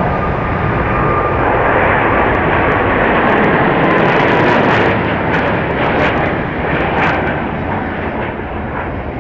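Jet airliner engines: a dense rushing noise with a faint thin whine on top early on. It is loudest about four to five seconds in, then slowly fades.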